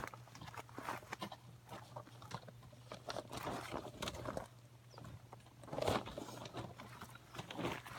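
Scattered rustling and crunching of someone moving about on dry ground, with a louder rustle about six seconds in, over a faint steady hum.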